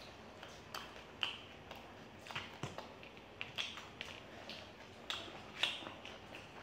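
Close-miked eating sounds of two people chewing chilli garlic and Schezwan noodles: wet mouth smacks and small clicks coming irregularly, several a second at times, with forks working through the food in metal trays.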